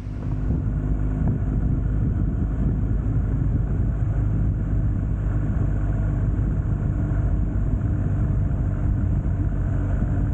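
Motorcycle engine running steadily at constant revs, starting abruptly and holding an even pitch throughout.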